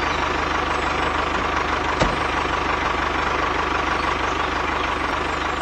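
Tractor engine idling steadily with a fast, even chug, and a single click about two seconds in.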